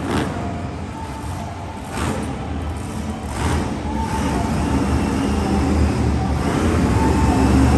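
Monster truck engine running and revving, growing louder through the second half.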